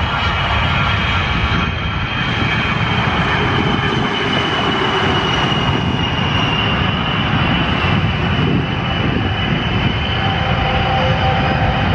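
Fairchild Republic A-10 Thunderbolt II jets' twin General Electric TF34 turbofans running at takeoff power: a loud, steady rushing noise with a high, steady whine on top.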